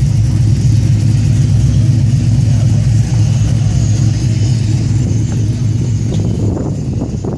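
A car engine running steadily close by, with a low, even hum.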